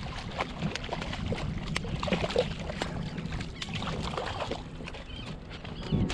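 Water sloshing around a fishing kayak, with scattered sharp clicks and knocks.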